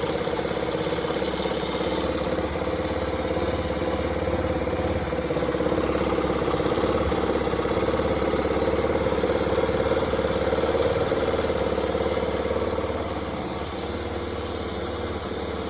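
Yamaha Factor motorcycle's single-cylinder engine idling steadily, easing slightly in level near the end. It has a noise that the owner is unsure about.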